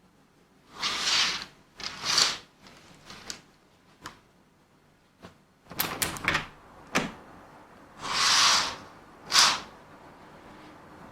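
Household handling noises: several short swishing slides, two of them near the start and two near the end, with a scatter of small clicks and knocks between them.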